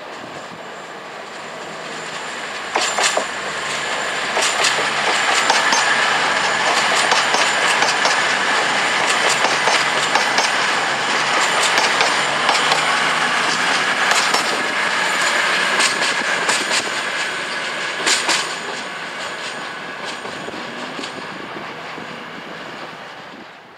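A train running through, its noise building up, staying loud for about fourteen seconds, then fading away. Sharp clicks come at irregular intervals as the wheels cross track joints, with a faint steady whine beneath.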